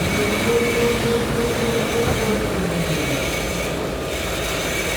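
Automatic pull-out facial tissue folding machine running under paper, a steady mechanical clatter with a humming tone through the first half that fades out about halfway.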